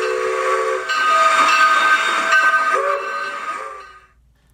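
Steam locomotive whistle blowing over hissing steam, its tones shifting pitch twice before the sound fades out near the end.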